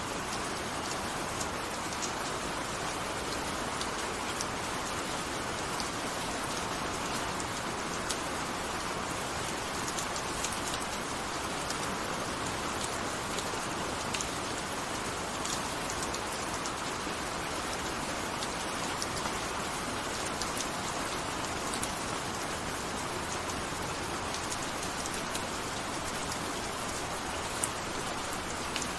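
Steady gentle rain, with individual drops ticking sharply on a surface over an even hiss of rainfall.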